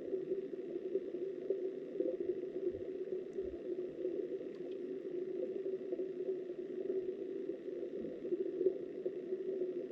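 Steady, muffled rush of flowing river water picked up by a camera underwater, with two faint low thumps about three seconds in.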